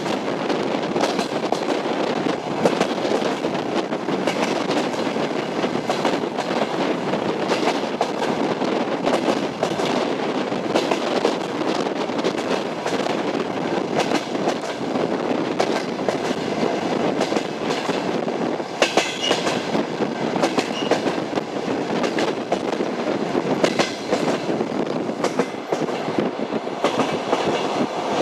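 Train wheels clacking over rail joints, with the steady rumble of the moving railway carriage.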